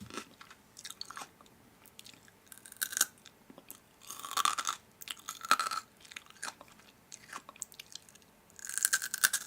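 Intermittent crunching and clicking, with louder crackling bursts about four, five and a half, and nine seconds in.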